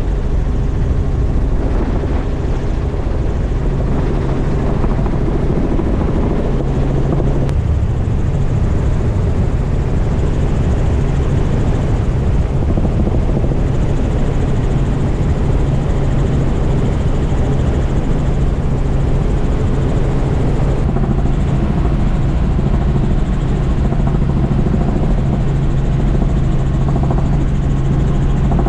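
Small tour helicopter in flight, heard from inside the cabin: a loud, steady rotor and engine drone with a constant low hum.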